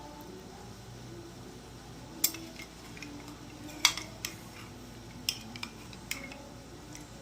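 Cutlery clinking against a plate while eating, half a dozen sharp separate clinks spread over a few seconds, the loudest about midway.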